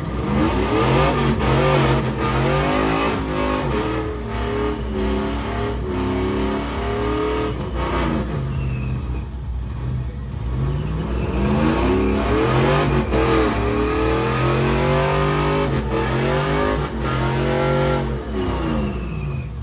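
A car engine revved hard during a burnout, its pitch climbing and falling again and again.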